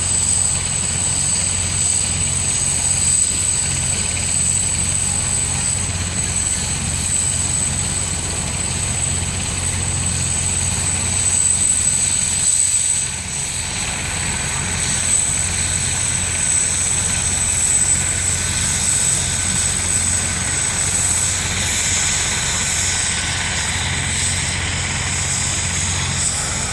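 Rescue helicopter running with its turbine engine: a steady low rotor thrum under a high, steady turbine whine.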